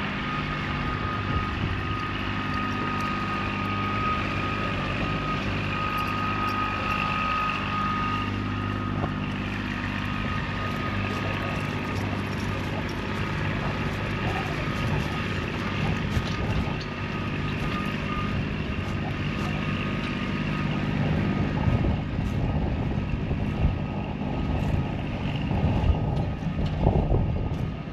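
Kubota tractor's diesel engine running steadily, with a steady high whine over it for the first several seconds. More rattling and clanking comes in toward the end.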